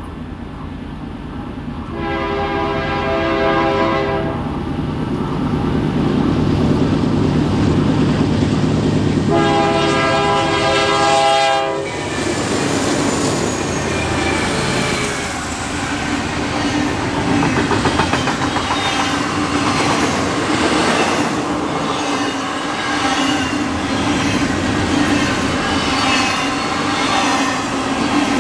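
Diesel freight locomotives rumbling closer, then sounding a multi-chime air horn twice: a two-second blast about two seconds in and a longer one a few seconds later. After that the train rolls past, its wheels clicking in a steady rhythm over the rail joints.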